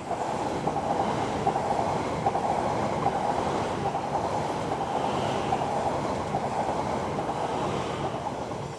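Electric multiple-unit train passing close by on third-rail track, a dense rumble of wheels on rails that swells up at the start and fades away near the end.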